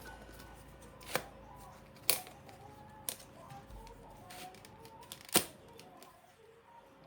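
Household objects being handled: four sharp knocks or clacks spread over several seconds, the last, about five seconds in, the loudest.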